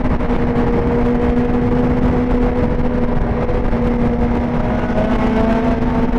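Suzuki GSX-R1000's inline-four engine holding a steady cruising note, its pitch creeping up slightly in the second half, over a rough rush of wind and road noise.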